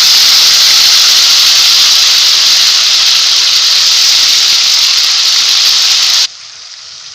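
Ginger, garlic and green chili paste sizzling loudly in hot mustard oil in a kadhai, a steady frying hiss that cuts off suddenly about six seconds in, leaving a faint sizzle.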